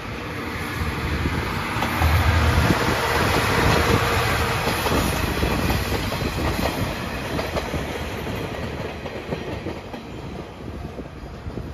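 Seto-Ohashi Anpanman Torokko sightseeing train passing at close range, its wheels clattering over the rail joints. It is loudest about two to four seconds in and fades as it moves away.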